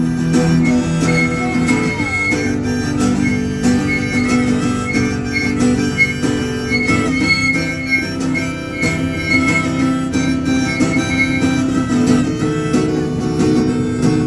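Acoustic guitar strumming with a harmonica playing a held-note instrumental break between sung lines.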